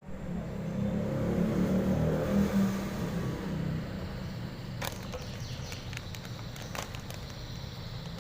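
Low rumble of a passing vehicle, loudest about two seconds in and then fading, followed by two sharp clicks.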